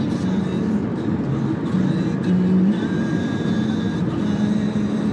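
Toyota Camry 2.4 on the move: steady engine and road noise of the car being driven.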